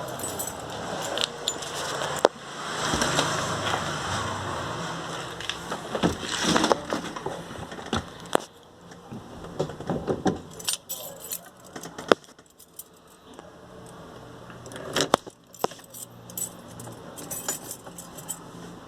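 Car keys jangling, with scattered clicks and knocks of handling and a stretch of rustling.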